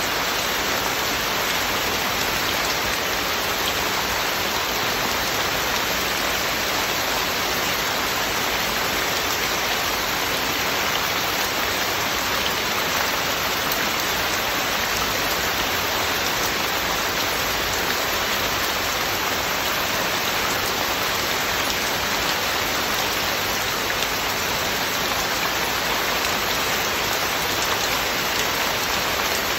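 Heavy rain falling steadily: a dense, even hiss of rain on surfaces, with no changes or separate events.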